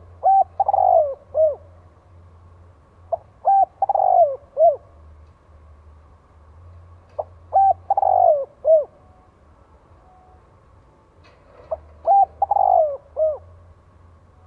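Spotted dove crowing its repeated coo phrase, the decoy call used to lure wild males. Four phrases come about every four seconds. Each is a couple of short coos, a longer falling coo and a short closing note.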